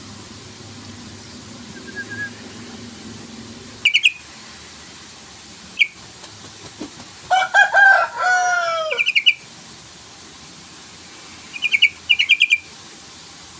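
Yellow-vented bulbul (trucukan) calling: short bursts of rapid chirps about four, six and twelve seconds in, and a longer phrase of falling notes in the middle. It is a lure call to provoke rival bulbuls to sing.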